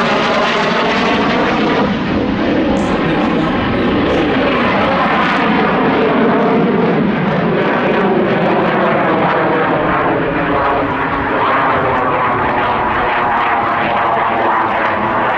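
Alenia Aermacchi M-346 jet trainer's twin Honeywell F124 turbofans, loud and continuous as the jet flies a display roll, with tones that slowly slide up and down in pitch as it moves.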